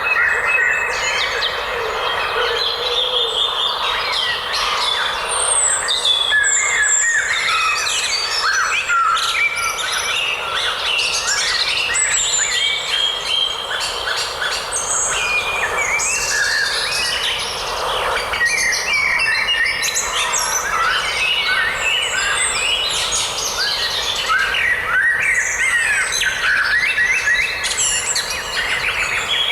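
A forest chorus of many birds chirping and singing at once, with short, quick calls overlapping throughout over a steady background hiss.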